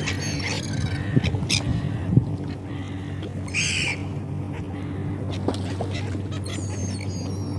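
Seagulls calling, with one louder call a little past halfway, over a steady low hum.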